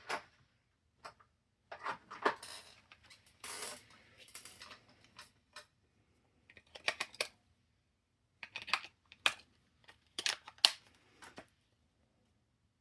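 Plastic clicks, rattles and short scrapes of a handheld TV-style remote control being handled while batteries are fitted into its battery compartment, coming in several short clusters with pauses between.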